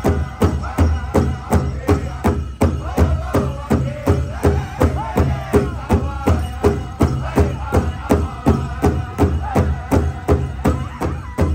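Powwow drum struck in a steady, even beat of about three to four strokes a second, with a group of singers chanting a powwow song over it.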